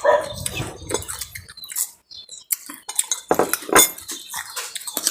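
Kitchen utensils clinking and clattering against dishes and bowls in quick, irregular knocks, with a short pause about two seconds in.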